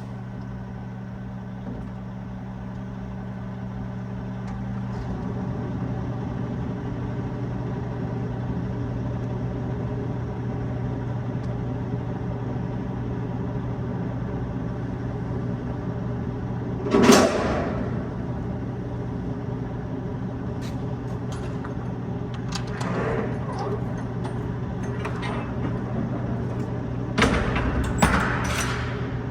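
Truck's diesel engine idling with a steady low hum. A loud clatter breaks in about 17 seconds in, and a few more come near the end.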